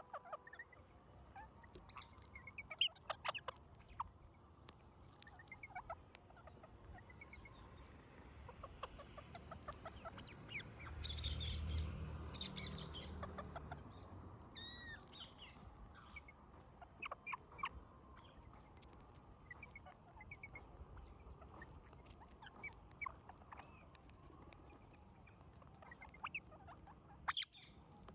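Parrots calling in short, scattered chirps and squawks mixed with small clicks, with one longer warbling whistle about halfway through. A low rumble swells and fades just before it.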